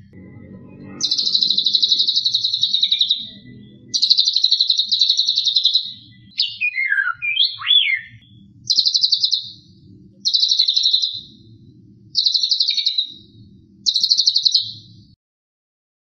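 White-rumped shama giving its harsh, fast-pulsed 'kretekan' rattle call six times, each burst lasting one to two seconds. A couple of sweeping whistles come in the middle. The sound stops abruptly near the end.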